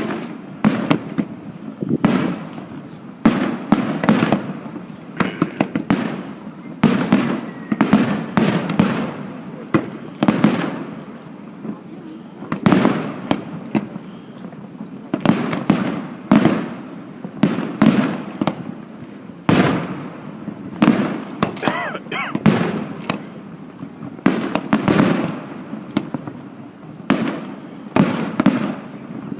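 Fireworks display: shells bursting one after another in irregular volleys of sharp bangs, often several a second, with crackling between them.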